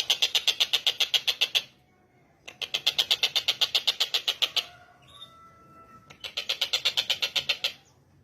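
Tengkek buto (stork-billed kingfisher) calling in rapid harsh chattering bouts of about eight notes a second, three runs with short pauses between, and faint thin whistles in the second pause.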